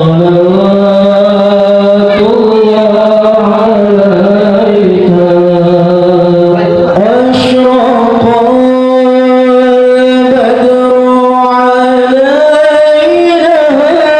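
Solo male voice chanting in long, ornamented held notes in a melismatic Arabic recitation style, its pitch climbing higher about halfway through.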